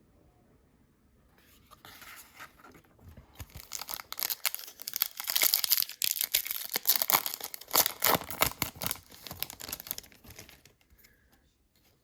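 Foil wrapper of a Topps Chrome baseball card pack being torn open and crinkled, starting about a second and a half in and loudest in the middle before it dies away near the end.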